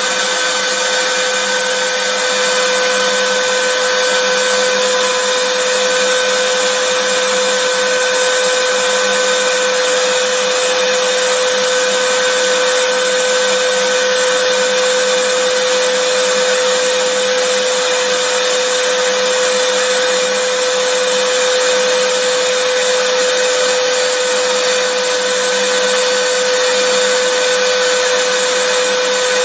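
Vacuum cleaner running continuously at a constant speed: a steady whooshing hiss with a fixed motor whine.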